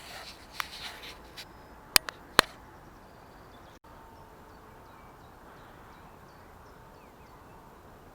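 Rustling handling noise with a few sharp clicks in the first couple of seconds, the loudest two close together about two seconds in. After that there is a steady flowing-stream hiss with faint bird chirps.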